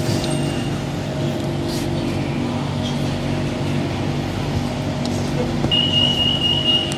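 BTS Skytrain car standing at a station, its equipment giving a steady hum of several low tones. About six seconds in, a high electronic tone sounds for about a second.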